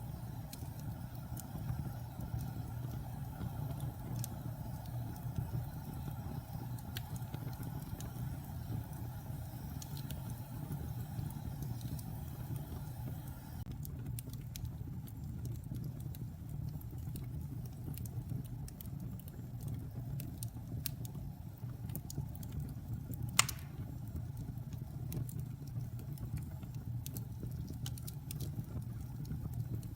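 Fire burning in a fireplace: a steady low rumble of flames with scattered small crackles, and one sharper pop about three-quarters of the way through.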